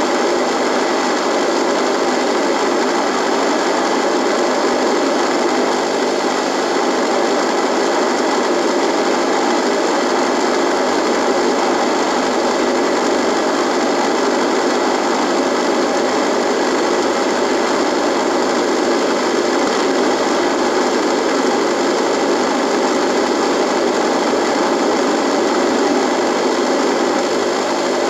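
Radio buzzing: a steady, unchanging buzz and static hiss with a fixed hum running through it.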